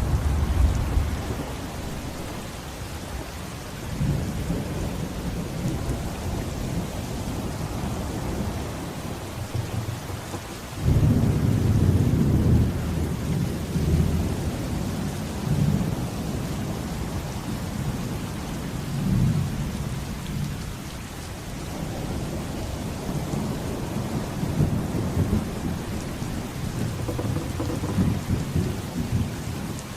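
Steady heavy rain with rolling thunder. Low rumbles swell and fade several times, and the loudest breaks in suddenly about a third of the way through.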